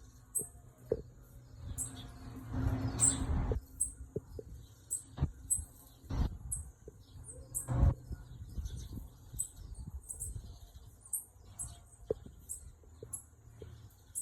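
Small birds giving short, very high-pitched chirps, repeated about once or twice a second, among a few sharp knocks and a burst of rustling about two seconds in.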